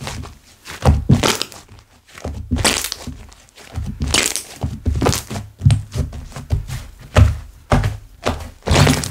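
Hands squishing and pressing slime: repeated dull thuds, with crackling and popping of air bubbles squeezed out of it, several times a second.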